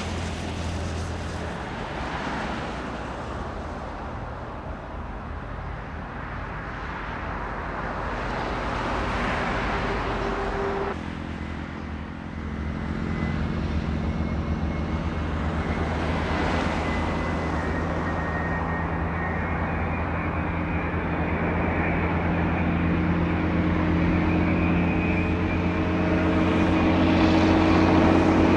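Airliner engine noise: a broad rush for about the first ten seconds, then, after an abrupt change, a steady droning hum with a faint high whine that grows louder toward the end.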